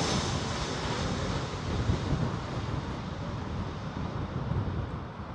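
Strong storm wind buffeting the microphone with a low rumble, while the noise of a jet airliner that has just passed dies away in the first second or so.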